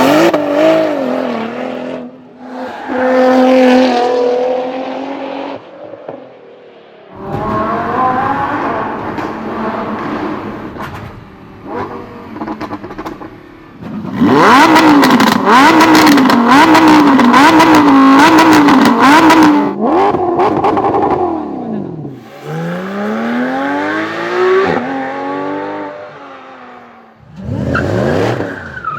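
A string of separate supercar engine clips cut one after another: engines revving and accelerating with rising pitch, and cars passing. In the loudest stretch, in the middle, an engine is revved up and down over and over at high revs with a rapid crackle of sharp pops.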